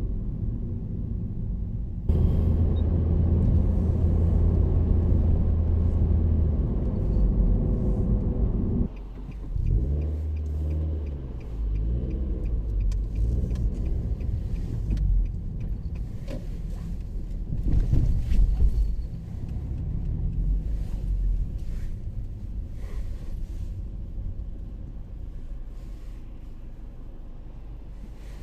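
Car driving with steady low engine and road rumble; the engine note shifts up and down about ten seconds in, then eases off and gets quieter toward the end.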